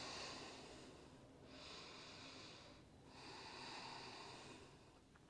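Faint, slow human breathing: three long breaths in a row, each about a second and a half.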